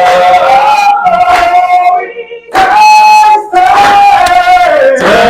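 Worship song being sung: long held notes that slide from one pitch to the next, with a short break for breath a little after two seconds in.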